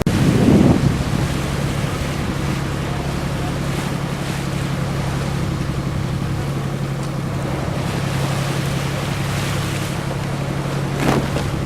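A boat engine running with a steady hum over the wash of water and wind at sea. Wind buffets the microphone in the first second.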